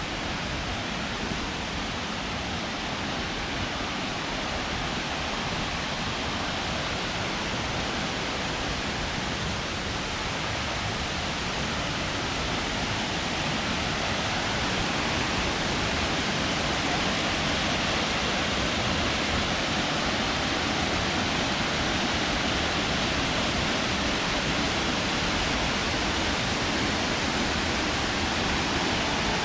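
Rushing water of a waterfall or mountain stream, a steady roar that grows a little louder over the first half.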